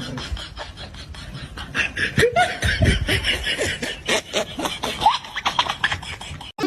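A person laughing in quick repeated bursts, cut off suddenly near the end.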